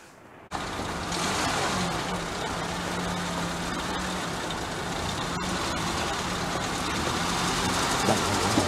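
Vintage car's engine idling steadily with a low hum, starting abruptly about half a second in.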